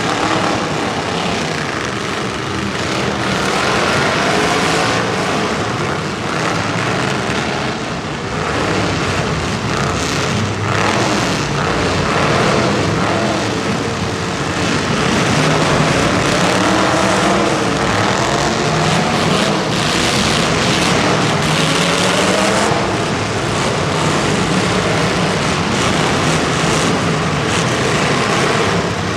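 Racing engines running hard, their pitch rising and falling again and again as they rev through a heat.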